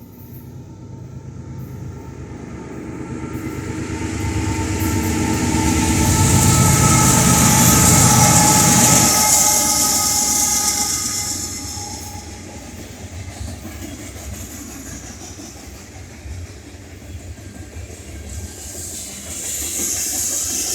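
Union Pacific freight train passing: the diesel locomotives' engine sound swells to a peak about seven to nine seconds in and falls away, followed by the steady rumble of freight cars rolling past.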